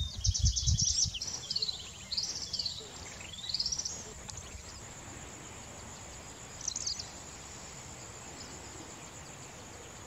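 Small birds calling: quick high chirps and short whistled notes sliding down and up in the first four seconds, then one short call near seven seconds, over a steady thin high-pitched whine. Low rumbling in the first second.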